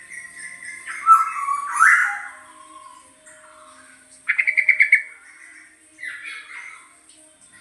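Young black-naped oriole (kepudang) in subsong, practising its song with a loose run of whistled and scratchy call phrases. The loudest phrases come about a second in, a fast rattling trill follows in the middle, and more calls come about a second later.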